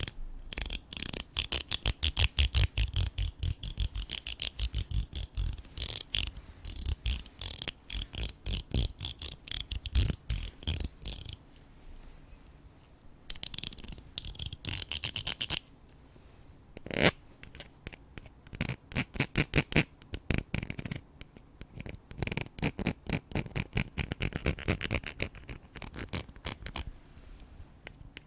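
Close, rapid scratching and brushing clicks in dense bursts, pausing now and then. Crickets trill steadily and high in the background, plainest from about 11 seconds in.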